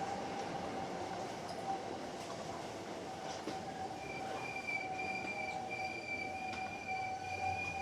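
Hankyu 7300 series field-chopper electric train slowing into its stop, heard from inside the car as steady running noise. About halfway through, a steady high squeal joins a lower ringing tone as the train brakes for the station.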